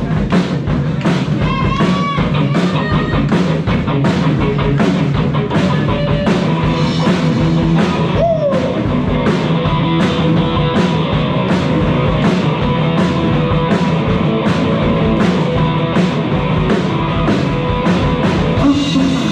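Live rock band playing an instrumental passage: a steady drum-kit beat of about two hits a second under electric guitar and bass, with a few bent guitar notes.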